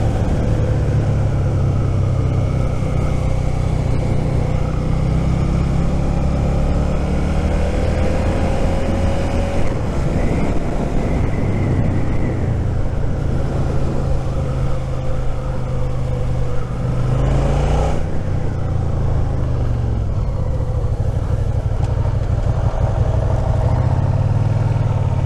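Suzuki SV650's V-twin engine running while the bike is ridden, its pitch rising and falling with throttle and gear changes, over a steady rush of wind noise.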